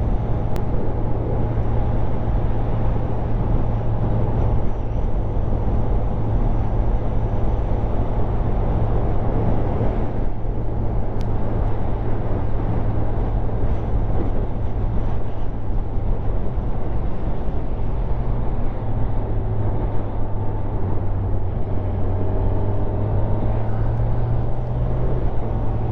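Motorcycle engine running steadily at cruising speed, mixed with rushing wind noise on the helmet microphone; the engine's pitch rises a little near the end.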